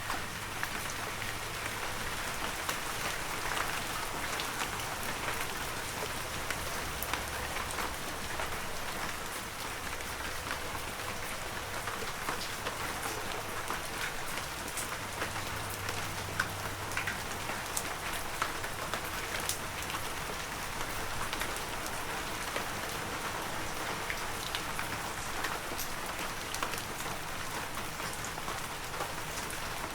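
Heavy rain falling steadily, a dense hiss of drops with many small individual drop ticks.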